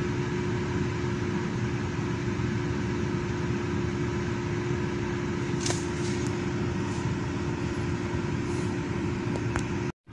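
Lincoln's engine idling steadily and evenly, with no revving. The shaking it had from a misfire is gone for now; the mechanic suspects the ignition coil and injector. The sound cuts off abruptly near the end.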